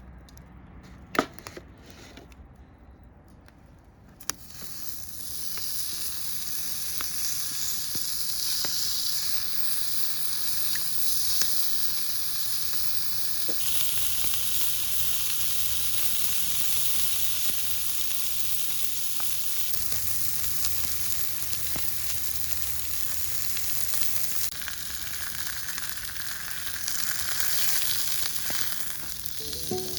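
Meat sizzling on an iron griddle, a steady high sizzle that starts about four seconds in, after a few sharp clicks.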